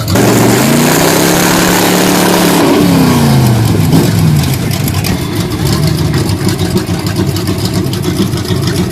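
Truck engine revved hard under load, its pitch climbing, holding high for a moment, then falling back to a lower steady run about halfway through, with a loud hiss over the high revs.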